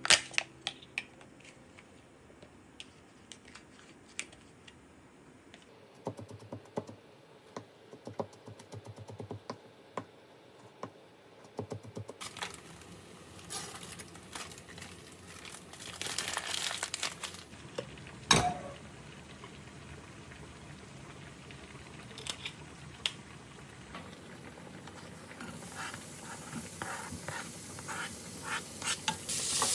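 Kitchen food preparation: scattered light clicks and knocks with some crinkling of packaging, one sharper knock about two-thirds of the way through. Near the end a frying pan starts to sizzle.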